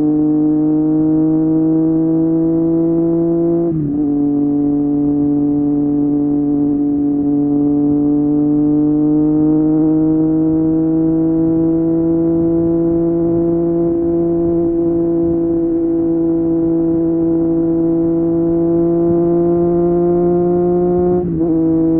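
Triumph Street Triple 765 RS's inline three-cylinder engine through an Akrapovic exhaust under steady riding, its note climbing slowly. It breaks off briefly for an upshift about four seconds in and again near the end, then comes back at a lower pitch.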